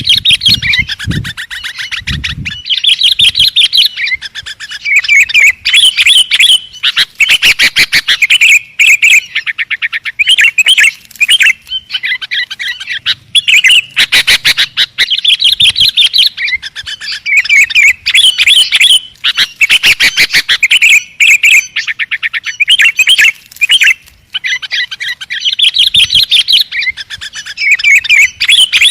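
Sooty-headed bulbul (kutilang) singing: loud, rapid chirping phrases repeated over and over with short breaks, plus a few low thumps in the first couple of seconds.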